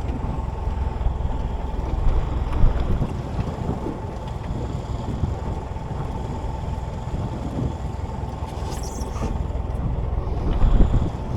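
Wind buffeting the microphone over the steady low rumble of a small boat at sea, with a faint steady high tone running under it. The wind swells louder about two and a half seconds in and again near the end.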